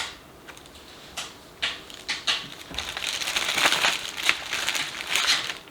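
Paper sheets and leaflets rustling and crinkling as they are handled and turned over, with scattered small clicks.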